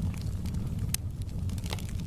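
Wood fire crackling in a fireplace: irregular sharp pops and snaps, one louder about a second in, over a steady low rumble.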